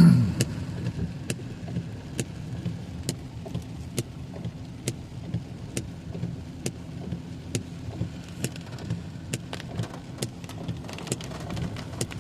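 Car cabin while driving through heavy rain: a steady low engine and road rumble with a hiss of rain, and sharp ticks about once a second that come closer together near the end.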